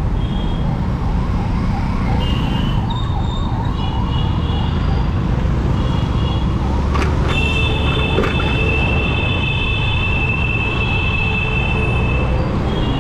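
Traffic noise heard from a moving scooter, with a steady low rumble of wind and road noise. A siren warbles rapidly during the first few seconds. From about halfway through, a high vehicle horn sounds steadily for several seconds.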